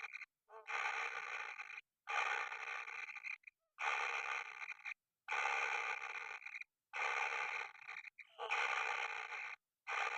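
Kingfisher chick giving harsh, rasping begging calls over and over, about seven in all. Each call lasts a little over a second, with short breaks between them.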